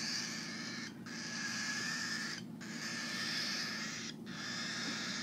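Three- to four-week-old cockatiel chicks giving long, harsh, rasping food-begging calls, broken by a short pause about every one and a half seconds: the hungry chicks' feeding-time call.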